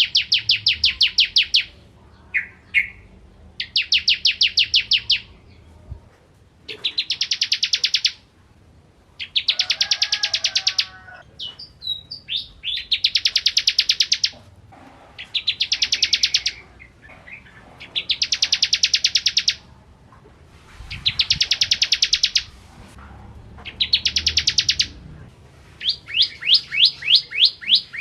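Bar-winged prinia (ciblek kristal) singing: bursts of fast, evenly repeated high notes, each about a second and a half long, coming every two to three seconds, with a few short chirps between the bursts.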